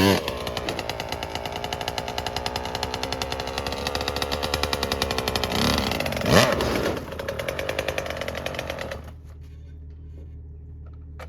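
Dirt bike engine running with a fast, even pulse, revved sharply at the start and again about six seconds in, each rev rising and falling in pitch. The engine sound stops about nine seconds in, leaving a low steady hum.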